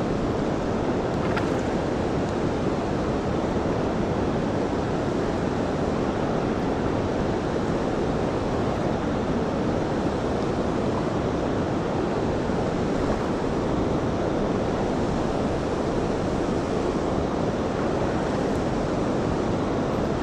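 Swollen creek water rushing steadily in a strong, fast current, running high after Hurricane Helene.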